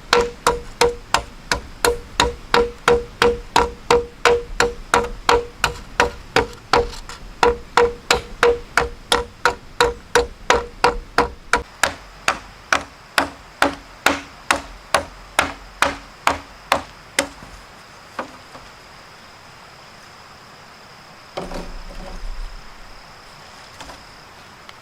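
A tool striking wood over and over, chopping or hammering, about two to three blows a second, each with a short hollow knock; the blows stop about seventeen seconds in. A brief rustling scrape follows a few seconds later.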